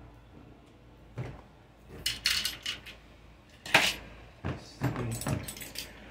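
Parts and tools being handled and set down on a workbench: a string of knocks, clinks and short rustles, the loudest knock about four seconds in.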